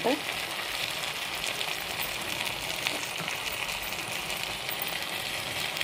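Chicken and chopped tomatoes sizzling in oil in a pan: a steady hiss with faint scattered crackles.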